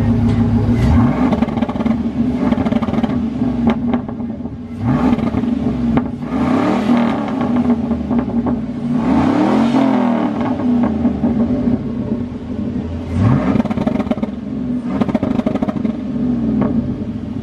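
Truck engine revving several times, its pitch climbing and dropping back over a steady running drone.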